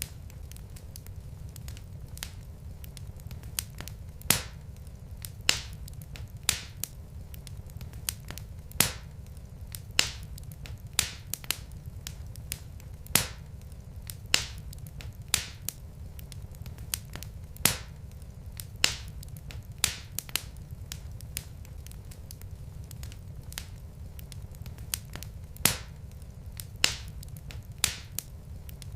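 Wood fire in a fireplace crackling: sharp, irregular pops about once a second over a low, steady rumble.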